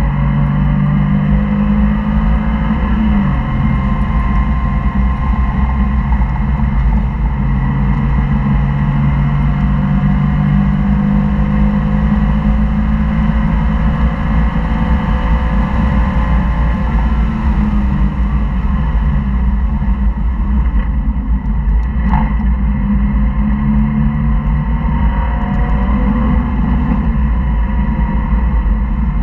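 Sports car engine on a race track, heard from inside the cabin, rising and falling in pitch as the driver accelerates, shifts and brakes, over steady road and wind noise.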